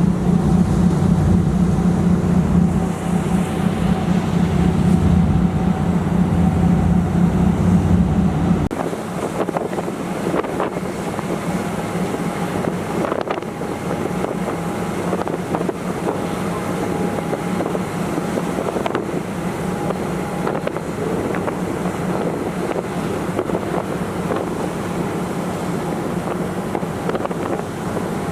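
Passenger ferry underway: a steady low engine drone with the rush of wind and water. The heavy engine hum drops away sharply about nine seconds in, leaving mostly wind and water noise.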